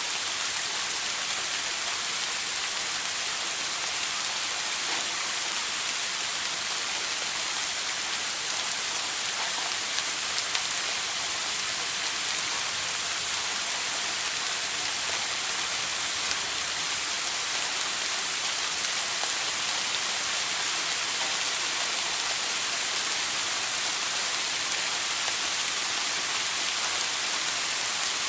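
A shower running steadily: water spraying from the head and pattering down as an even hiss, with a few faint drop ticks.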